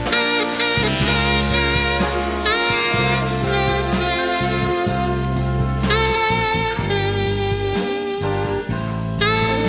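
Jazz recording with a saxophone playing a melody over bass and drums, one note sliding upward briefly a few seconds in.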